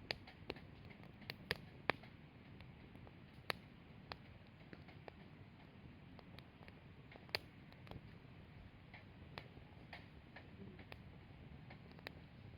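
Firewood burning in a Snow Peak fire pit, crackling with irregular sharp pops, the loudest few in the first two seconds and one about seven seconds in, over a faint low rumble.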